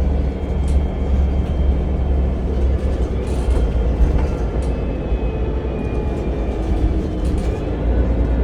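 A public-transport vehicle running along, heard from inside: a steady low rumble with faint rising and falling whines and a few brief rattles.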